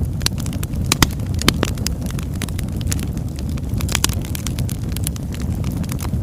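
Oak logs burning in a fireplace: a steady low rumble of flame with irregular sharp crackles and pops, a few louder snaps about a second, a second and a half and four seconds in.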